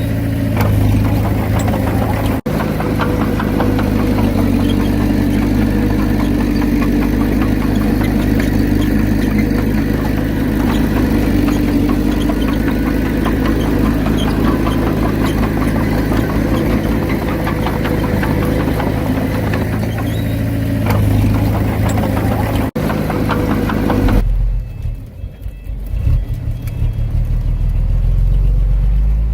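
Diesel engine of heavy earthmoving machinery running steadily under load, with a dense, knocking low rumble. The sound breaks off for an instant twice, and after about 24 seconds it turns duller and lower, with brief dips in level.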